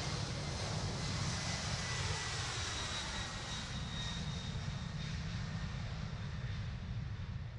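Airliner engines running as an aircraft moves on or near the runway, a steady rumble and hiss with a faint whine that slowly drops in pitch and thins out near the end.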